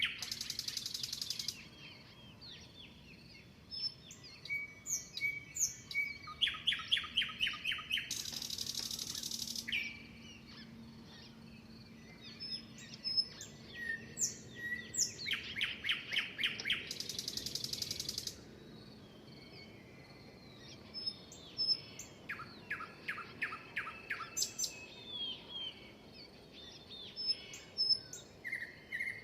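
Birds singing and chirping. A fast, even trill repeats every several seconds, and some trills run into a harsh buzz about a second and a half long, with short chirps from other birds between.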